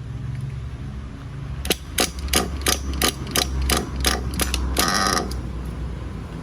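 Nitro RC buggy engine running with a low steady hum during break-in, while a series of about ten sharp mechanical clicks comes about three a second, ending in a short rapid rattle.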